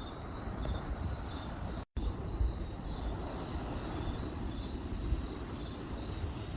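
Crickets chirping in quick steady pulses over the low, continuous rush of a campfire, with a few faint pops. The sound cuts out completely for an instant about two seconds in.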